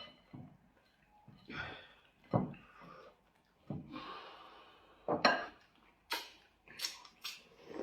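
Tableware at a meal: bowls and eating utensils clinking and knocking in a string of separate short sounds, with one dull knock about two seconds in and sharper, brighter clicks near the end.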